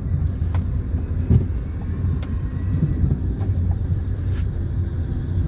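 A car driving along a road, a steady low rumble of engine and tyres, with a few light clicks and knocks from the vehicle, the strongest about a second in.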